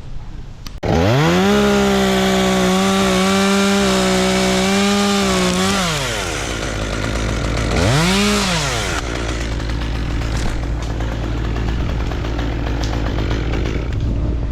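Chainsaw revving up about a second in and held at full throttle for about five seconds as it cuts, then dropping off; a second short rev follows around eight seconds, after which the saw idles under wind noise.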